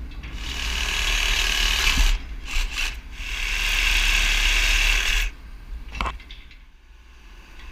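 A power tool run in two bursts of about two seconds each, the second cutting off suddenly, followed by a single click.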